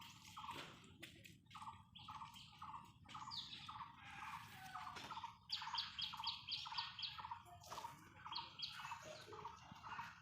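Bird chirping: a steady run of short repeated chirps, joined about five and a half seconds in by a fast, higher trill lasting about two seconds.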